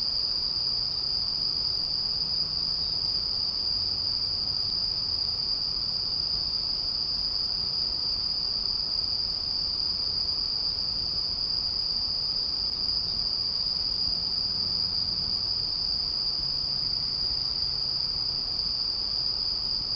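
Insects singing in one continuous, steady high trill that never breaks.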